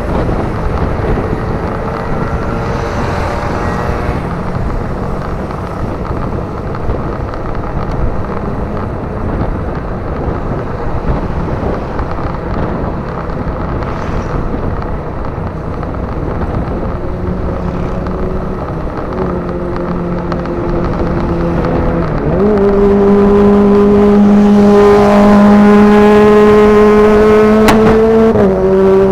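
Motorcycle engine running under way with heavy wind rush over the microphone. About three-quarters of the way through, the engine note rises and gets clearly louder as the rider opens the throttle, then dips briefly near the end, like a gear change.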